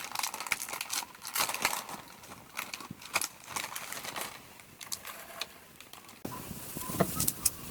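Irregular light clicks and crackles, with steadier background noise setting in about six seconds in and two sharper clicks near the end.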